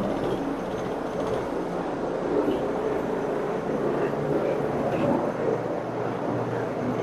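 Carpet-cleaning machine running steadily, an even mechanical drone.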